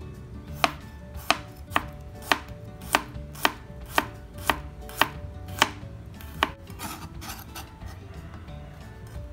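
Kitchen knife slicing garlic cloves on a plastic cutting board: about eleven sharp chops, roughly two a second, that stop about six and a half seconds in, followed by softer scraping as the slices are gathered onto the blade.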